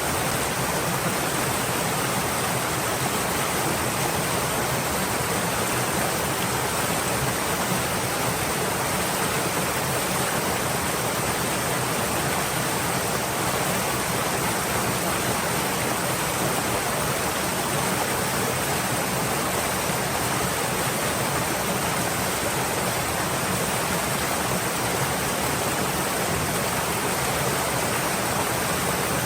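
Stream water flowing steadily, an even rushing wash with no distinct splashes or changes.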